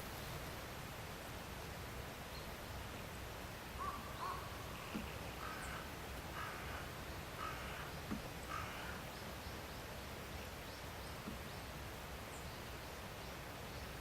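A crow cawing, a series of about half a dozen harsh calls from about four seconds in to about nine seconds in, faint against a steady background hiss.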